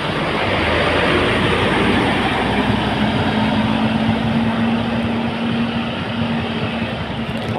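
A motor vehicle running close by: a broad rushing noise that swells about a second in, with a steady engine drone coming in about two and a half seconds in.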